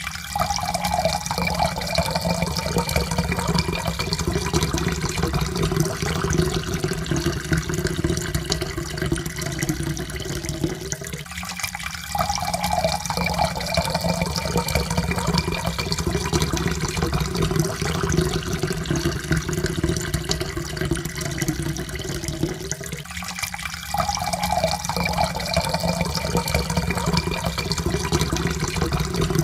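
Water pouring steadily into a cup, a faint tone rising slowly as the cup fills. The pour breaks off briefly and starts over twice, about every eleven or twelve seconds.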